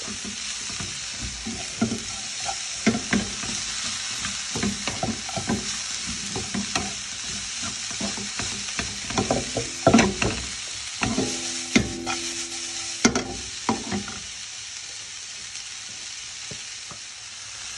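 Sliced onion, cabbage and carrot sizzling in very hot oil in a pan, with repeated knocks and scrapes of a utensil as the vegetables are tossed. The stirring stops about fourteen seconds in and the steady sizzle carries on.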